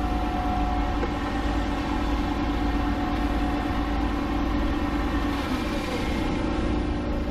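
An engine of farm machinery running steadily, a constant hum with a deep rumble underneath.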